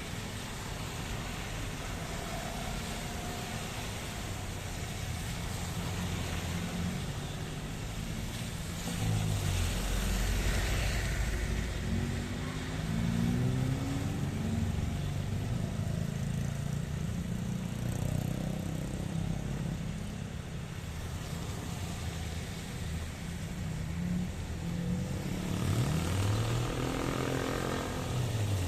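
Steady rain with motor vehicles passing by, their engine notes rising and falling in pitch as several go past in turn, the loudest passes about a third of the way in and again near the end.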